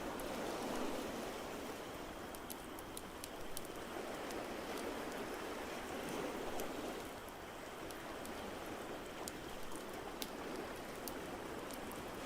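Ocean waves washing in a steady, slowly swelling rush, with the sharp pops and crackles of a wood fire scattered over it.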